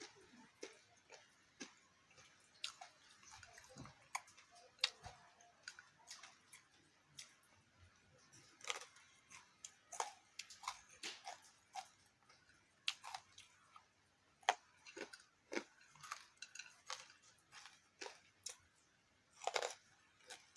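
A person chewing food close to the microphone: irregular crunchy clicks and smacks, some louder than others.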